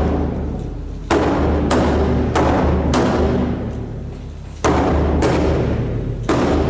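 Japanese taiko drums struck in heavy, widely spaced beats, about seven strikes, several in quick pairs, each ringing out long after the hit.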